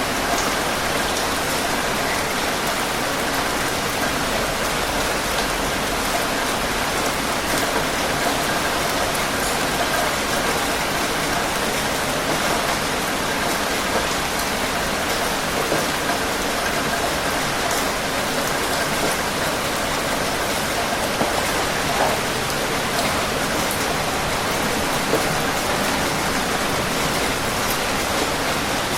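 Steady heavy rain falling on a surface, a dense even hiss with individual drop patter throughout.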